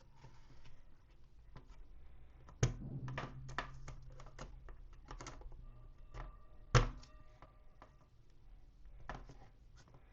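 Plastic toy parts and packaging handled close to the microphone: a run of light clicks and taps, with two sharper knocks about three and seven seconds in and a faint ringing tone in between.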